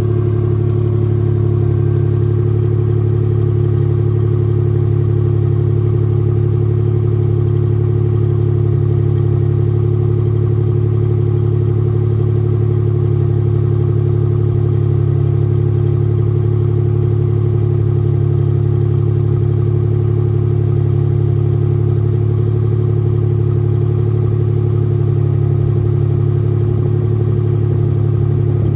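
An engine running at a constant speed: a loud, even, low drone whose pitch does not change.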